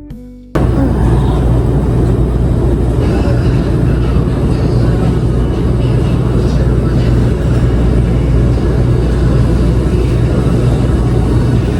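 Background guitar music cuts off about half a second in, followed by a loud, steady, low mechanical hum and rumble.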